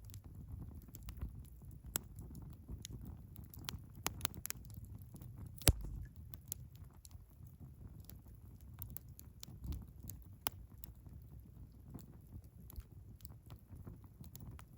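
Wood fire burning in a Picogrill 398 fire pit, crackling with irregular sharp pops over a low rumble, one pop louder than the rest about six seconds in.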